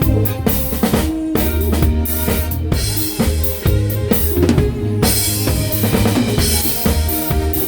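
Live band playing a disco-beat song, with the drum kit's kick drum and snare driving a steady beat over bass and other instruments.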